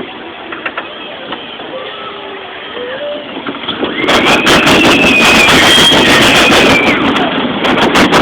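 Mine train roller coaster ride: rattling and rushing noise that turns much louder about four seconds in, with a high wavering squeal over it.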